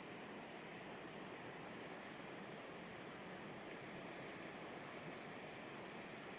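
River rapids rushing, a steady even roar of water.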